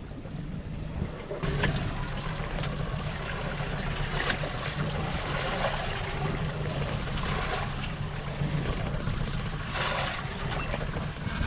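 Wind buffeting the microphone and sea water sloshing around a small fishing boat, over a steady low hum, with a few short sharp knocks.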